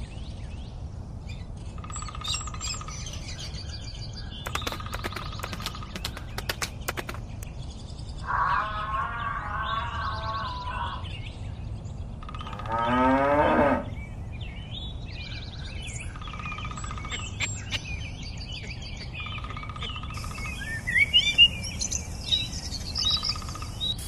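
Bird chirps, then cattle mooing twice around the middle: one long, wavering call and a shorter one that rises in pitch. More bird chirps and twittering follow.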